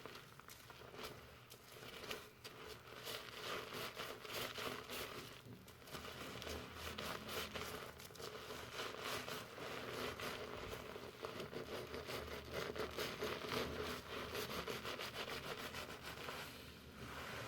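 Fingers working a foamy shampoo lather through hair close to the microphone: a continuous crinkling rustle of bubbles and wet hair, easing briefly about two and six seconds in.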